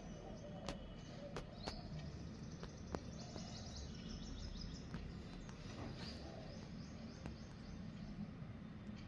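Small birds chirping faintly over steady background noise, with a quick run of short high notes about three seconds in and a few sharp clicks scattered through.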